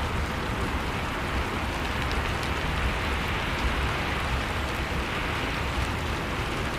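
Steady rushing of blizzard wind, with a few faint crackles of a wood fire.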